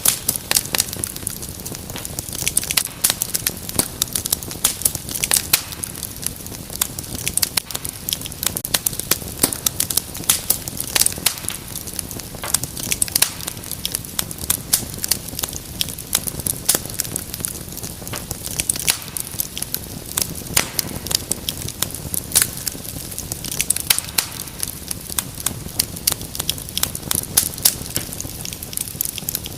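Wood fire crackling and popping steadily, with dense irregular snaps over a low hiss.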